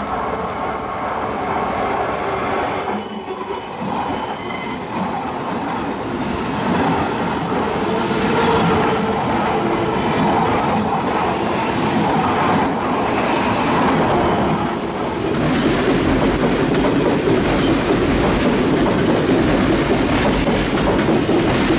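Odakyu 2000-series electric commuter train arriving and running past close by, wheels rumbling on the rails, with repeated high-pitched squeals as it rounds the curve into the station. The sound grows louder and fuller about two-thirds of the way through as the cars pass nearest.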